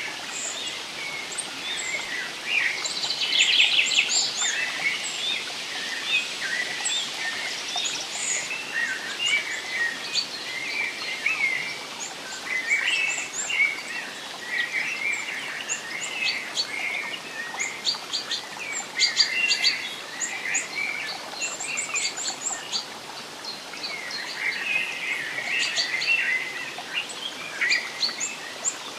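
Forest birds chirping and singing, many short calls and trills overlapping, busiest a few seconds in, around two-thirds of the way through and near the end, over a steady background hiss.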